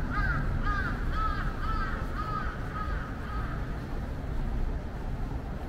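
A bird giving a run of repeated calls, about two a second, each rising and falling, slightly lower in pitch toward the end and fading out about three and a half seconds in, over a steady low rumble of street noise.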